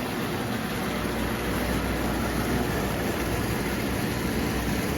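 Marx O-gauge toy locomotive running on track, a steady motor and wheel rumble with a low hum beneath.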